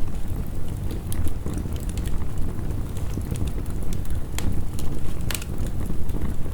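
Heavy rain with a low, steady rumble, mixed with a crackling wood fire giving scattered sharp pops; two louder pops stand out in the second half.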